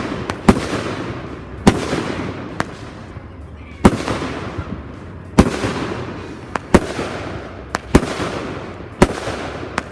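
Fireworks going off: about a dozen sharp bangs at uneven intervals, roughly one a second, each trailing off in a long fading echo.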